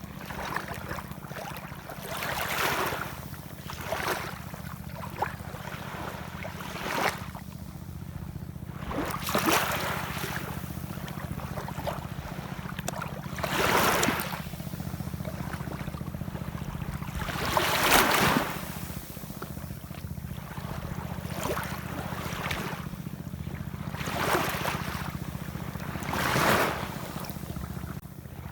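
Ocean waves washing in, swelling and fading every few seconds over a steady low rumble.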